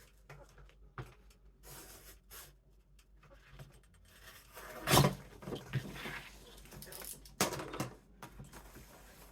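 Retractable craft knife scoring and cutting through poster board on a cutting mat: short scraping strokes and rustles of card, with a sharper, louder knock or crackle about five seconds in and another about seven and a half seconds in.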